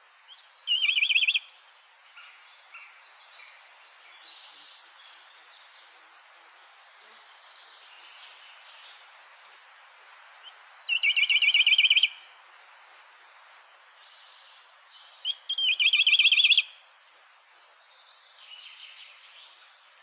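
A bird's rapid, high-pitched trilled call, heard three times: a short one about a second in, and longer ones near the middle and about two-thirds of the way through. Fainter chirps can be heard between the calls.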